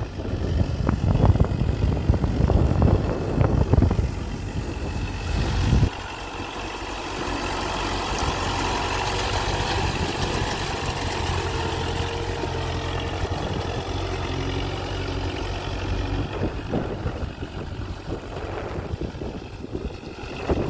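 Kubota MU4501 tractor's four-cylinder diesel engine running. For the first six seconds a loud, uneven rumble lies over it, then it cuts off abruptly, leaving the engine's even, steady drone.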